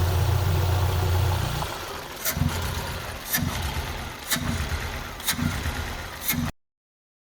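Vauxhall Astra H's Z16XER four-cylinder petrol engine idling steadily, then about a second and a half in dropping to a rough, uneven idle that stutters with a sharp stumble about once a second, five times. The stutter comes with the oil cap on, and the owner puts it down to a broken vacuum (crankcase breather) valve in the valve cover.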